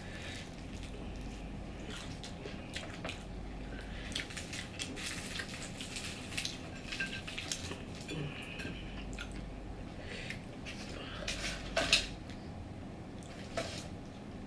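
Close-up eating sounds: biting and chewing fried chicken, with scattered wet clicks, smacks and taps from handling the food and containers, the loudest about twelve seconds in.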